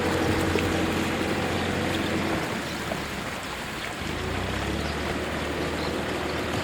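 Kubota tractor's diesel engine running steadily under load, with a constant rushing noise over it. The engine note sags a little about midway and picks up again about four seconds in.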